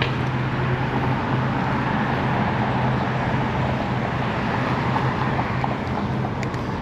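Steady road traffic noise with a constant low hum underneath.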